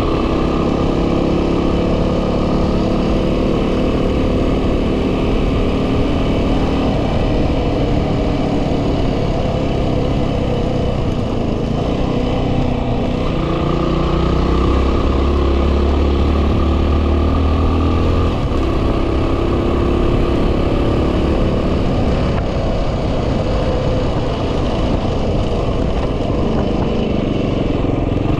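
A 2010 Yamaha WR250R's 250 cc single-cylinder four-stroke engine running under way, its note rising and falling with the throttle. Heavy wind noise buffets the microphone, with a stronger low rumble around the middle.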